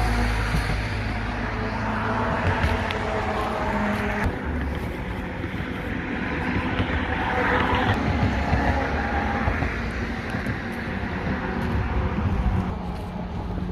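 Steady rumble of passing road traffic, mixed with wind buffeting the microphone.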